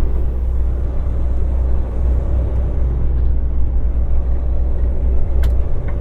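Semi truck heard from inside the cab while driving: a loud, steady low drone of diesel engine and road noise. A single sharp click comes near the end.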